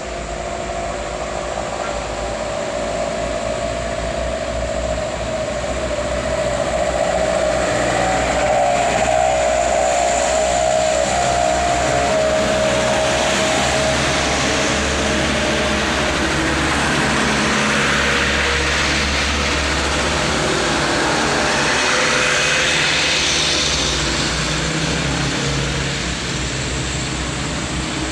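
Heavy diesel truck loaded with sugarcane running under load. The noise builds over the first several seconds and eases a little near the end.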